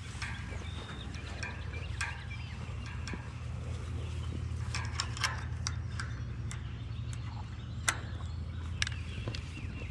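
Outdoor farmyard ambience: a steady low hum, a few sharp taps or steps in the second half, and faint animal and bird calls.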